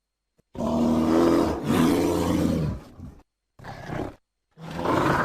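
Bear roaring: after a brief silence, a long, deep roar of about two and a half seconds, a short one, then another beginning near the end.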